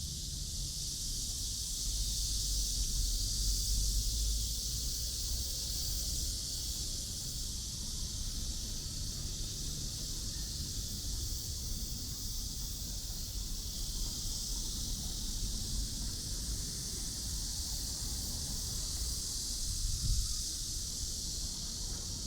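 Outdoor ambience: a steady high-pitched hiss over a low rumble, which swells a few seconds in and briefly again near the end.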